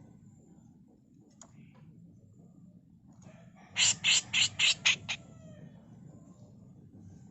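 Grey-cheeked bulbul (cucak jenggot) giving a quick run of about six loud, harsh rasping calls about four seconds in, over low background noise.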